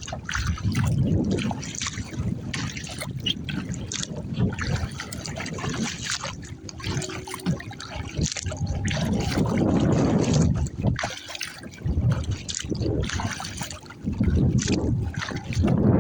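Water splashing and trickling around a Pelican Argo 100XR kayak's hull, in uneven surges, with wind rumbling on the microphone.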